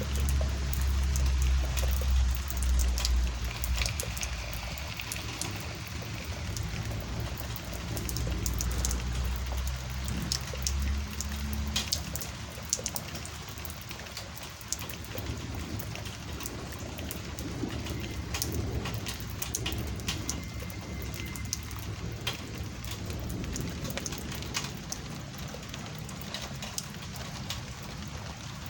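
Heavy rain from a thunderstorm, pouring steadily, with many individual drops striking close by. A deep low rumble comes in for the first few seconds and again about eight to twelve seconds in.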